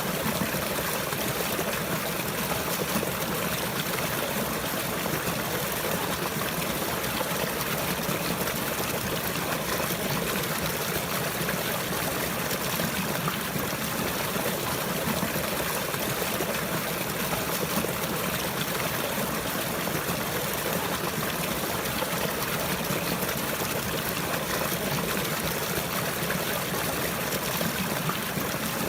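Running water trickling and flowing steadily, without a break.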